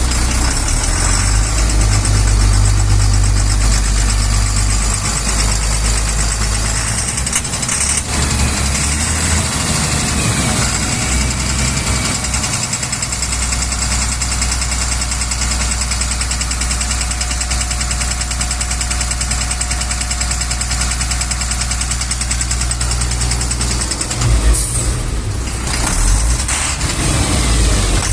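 Cummins 6ISBe six-cylinder diesel engine of a KamAZ truck running, with a knock that the owner puts down to a faulty injector. It is briefly louder near the end.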